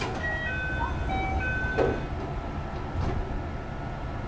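Sounds inside a JR West 221 series electric train car. A sharp click, then a run of short electronic tones at shifting pitches, and a heavy thump just under two seconds in. All of it sits over a steady low rumble.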